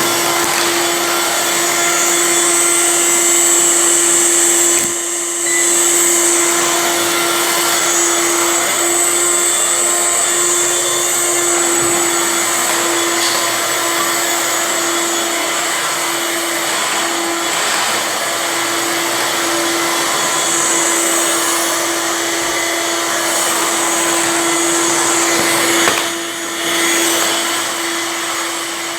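Dirt Devil stick vacuum running steadily, a constant motor whine over a rushing airflow hiss. The sound dips briefly about five seconds in and again near the end.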